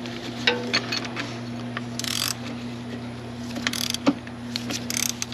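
Ratchet wrench clicking in a few short bursts as it turns the bolt of a homemade puller, working a binding, corroded PRNDL switch off the transmission selector shaft. A steady low hum runs underneath.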